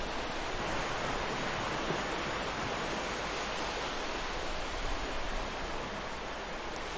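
Ocean surf washing onto a beach: a steady, continuous rush of breaking waves, with some wind on the microphone.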